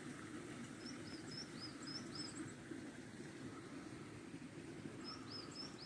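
Faint outdoor ambience: a small bird sings two short runs of quick, high chirps, one about a second in and another near the end, over a steady low background rumble.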